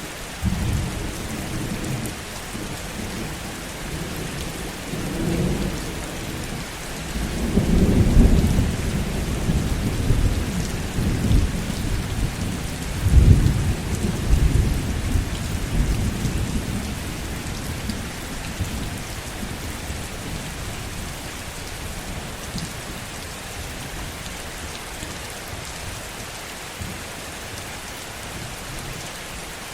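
Steady heavy rain with a long roll of thunder: the rumble swells several times in the first half, loudest about 8 and 13 seconds in, then dies away, leaving the rain alone.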